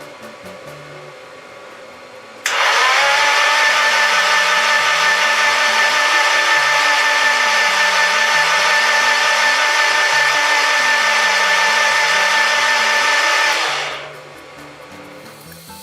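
A high-speed handheld power tool motor spins up abruptly about two and a half seconds in. It runs loud and steady for about eleven seconds, then winds down.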